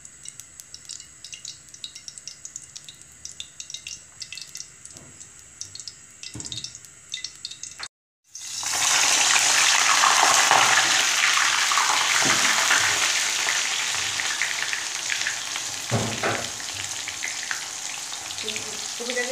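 Cooking oil being poured into a kadai, with faint scattered ticks. After a brief cut, a whole parboiled cauliflower goes into the hot oil and sizzles loudly, then slowly quietens as it fries.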